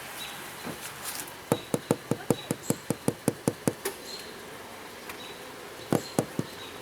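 A quick, even run of sharp taps or knocks, about five a second for some two seconds, then a few more near the end, with short faint high chirps in between.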